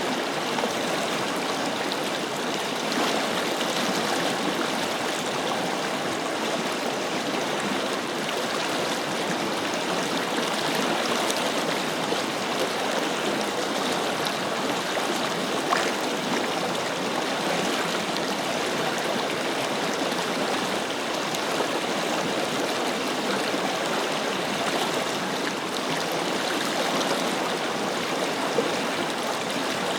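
Forest river flowing steadily over rocks, a continuous rushing and babbling of water with an occasional small splash.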